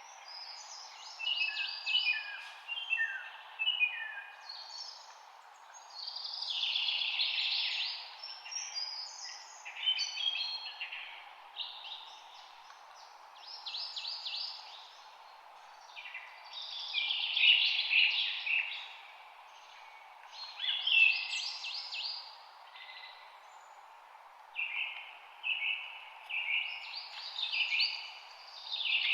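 Songbirds singing in short phrases of rapid chirps and trills, a new phrase every few seconds, over a faint steady hiss.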